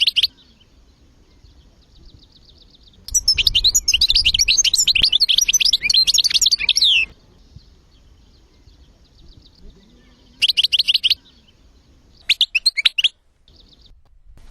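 Songbirds singing in rapid, high twittering phrases: a short burst at the start, a long dense stretch of song from about three to seven seconds in, and two shorter bursts near the end. A fainter trill carries on in the gaps.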